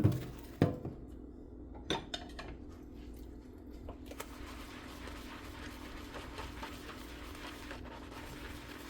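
Dishes and cutlery clinking and knocking together in a kitchen sink during handwashing: a few sharp clinks in the first two and a half seconds, then softer, busier washing noise from about four seconds in, over a low steady hum.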